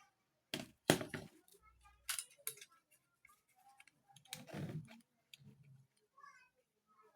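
Scattered sharp clicks and knocks from hands handling objects on a workbench, the loudest about a second in, with further knocks about two seconds and four and a half seconds in.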